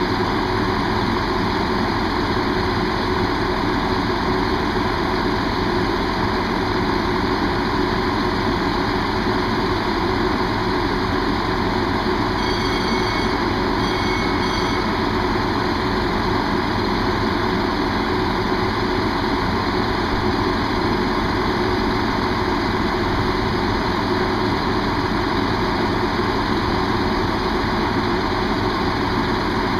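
Diesel train engine idling steadily, as a train waits in the station for a crossing. A brief high-pitched tone sounds twice about halfway through.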